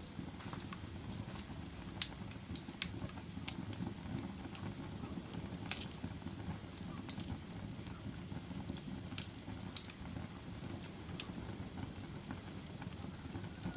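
A fire burning with a steady low rumble and irregular sharp crackles and pops, the strongest about two seconds and nearly six seconds in.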